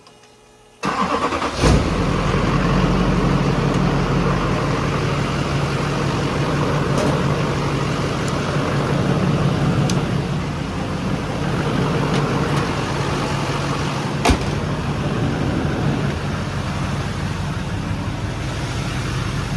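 The 2005 GMC 2500's Duramax 6.6-litre V8 turbo-diesel comes in abruptly about a second in and runs steadily at idle, with a couple of sharp clicks over it.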